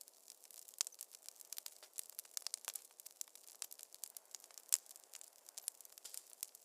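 Wood fire in a fireplace crackling, with a steady stream of irregular small pops and snaps and one louder pop about two-thirds of the way through.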